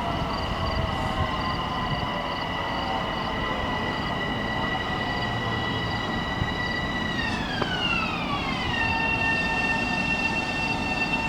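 Electric multiple-unit train running, its propulsion whine a set of steady high tones over the wheel and track rumble. About seven seconds in, the whine glides down over a second and a half to a lower steady pitch.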